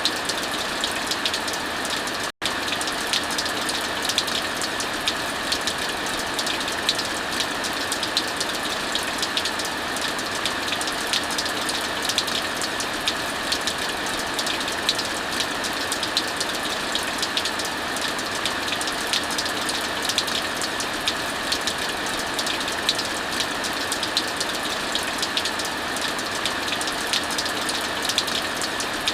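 Steady heavy rain, a constant hiss, mixed with the frequent small pops and crackles of a wood fire. The sound cuts out for an instant about two seconds in.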